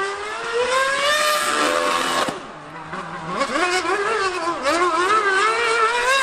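High-revving racing engine running hard, its high pitch rising and falling with throttle and gear changes. About two and a half seconds in it drops briefly to a low, quieter note, then revs up again.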